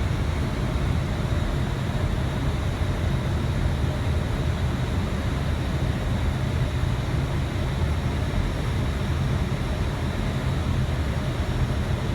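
Steady cockpit noise of an Airbus A320 on final approach: a constant rush of airflow and ventilation with a low rumble underneath, unchanging throughout.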